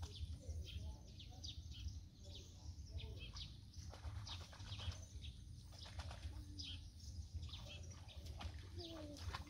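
Small birds chirping in quick, repeated short calls, faint, over a steady low hum, with distant voices now and then.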